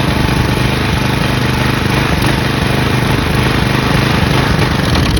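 Briggs & Stratton flathead single-cylinder engine on a Craftsman push mower, running steadily and loudly while it is fed oil and sand grit, then cutting out abruptly at the very end as it dies and seizes.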